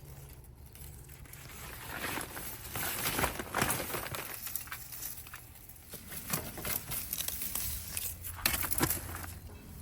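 Tomato plant foliage rustling and crackling as the vines are pulled down and the fruit picked by hand, in irregular bursts that are loudest about three seconds in and again near the end.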